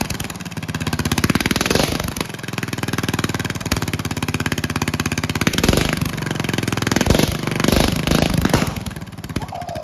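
Bolens riding mower's small petrol engine running loud through a homemade open exhaust with no muffler, revving up and down several times and easing off near the end.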